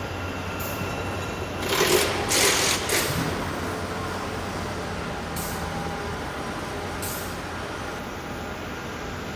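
Mini excavator's small diesel engine running steadily, with a loud hissing burst about two seconds in and two short fainter ones later.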